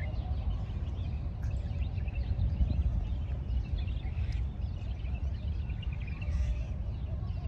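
Birds chirping and calling against a steady low rumble of outdoor noise.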